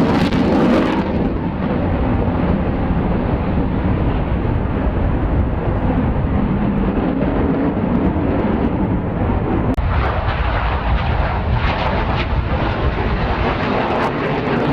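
Airplane engine noise, loud and continuous, with abrupt changes about a second in and again near ten seconds in.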